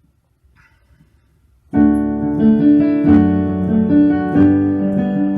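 Near silence, then about a second and a half in a piano starts suddenly, playing sustained chords as the introduction to a hymn.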